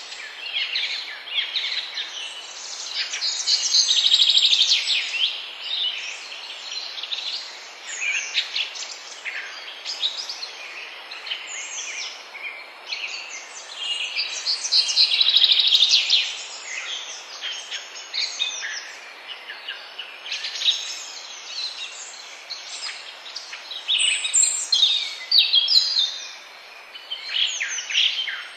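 Several birds singing and calling at once, a dense chorus of chirps, trills and short whistled phrases, busiest a few seconds in and again about halfway through, over a faint steady hiss.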